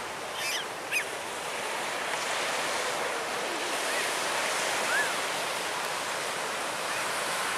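Surf on a beach: a steady rushing hiss, with a few brief high chirps and a short click about a second in.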